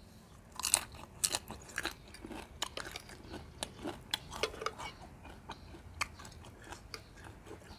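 Close-up chewing and crunching of raw young leucaena (lead tree) pods: many short, irregular crisp crunches.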